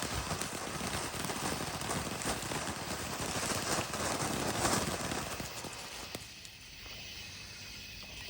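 Fireworks crackling, a dense run of many small rapid pops that dies down about six seconds in.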